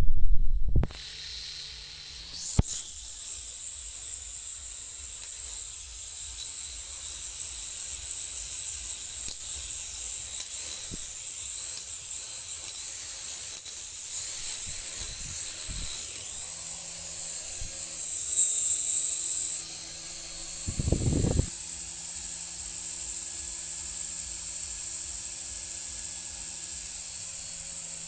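Small electric motor of a toy RC helicopter running at high speed: a steady, high-pitched whine and hiss. It shifts briefly in pitch about 18 to 19 seconds in, and there is a short knock-like sound about 21 seconds in.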